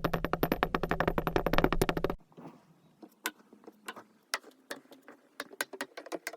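Kinetic sand being cut and squeezed: a fast, dense run of crackling clicks over a low hum for about two seconds, then cutting off to quieter, scattered crunchy crackles.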